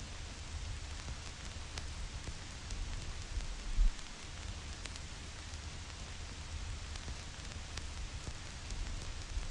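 Vinyl record crackle: scattered pops and clicks over a steady hiss and a low rumble. A louder low thump comes a little before four seconds in.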